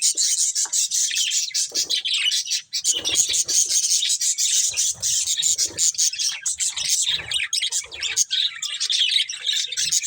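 Budgerigars chirping and chattering non-stop in rapid, high-pitched notes.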